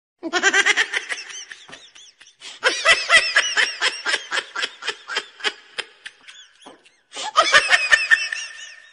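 Laughter in three bouts, each a run of quick rhythmic laughs, the middle bout the longest.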